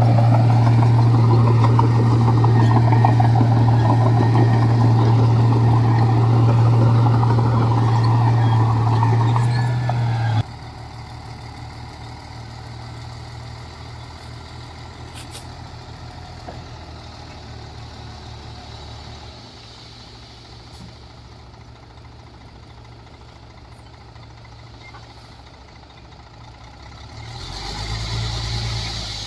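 Heavy diesel engine of earthmoving machinery running with a loud, steady low hum. About ten seconds in it drops suddenly to a much quieter engine rumble. Near the end a short swell rises and fades.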